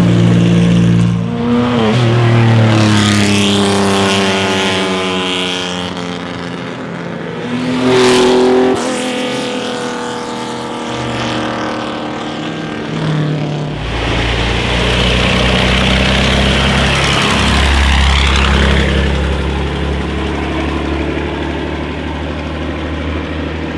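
Classic racing car engines revving hard and accelerating, the note climbing in pitch through the gears. One car passes loudest about a third of the way in, and a deeper, rumbling engine takes over around the middle.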